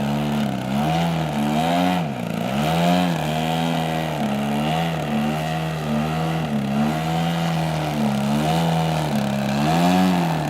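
Desert Aircraft DA-120 twin-cylinder two-stroke gasoline engine of a giant-scale RC aerobatic plane running in flight, its pitch rising and falling again and again with throttle changes and passes, with a sharp dip about two seconds in.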